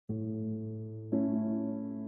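Slow piano music: a chord struck just after the start and another about a second later, each left ringing.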